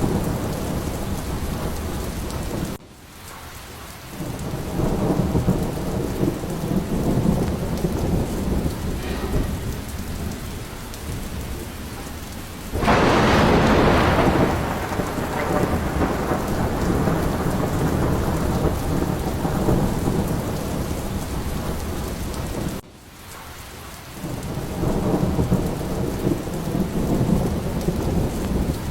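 A thunderstorm: heavy rain hissing steadily over a low rumble of thunder, with a loud, sharp thunderclap about thirteen seconds in that rolls away over a couple of seconds. Twice the sound drops away suddenly for about a second and then swells back.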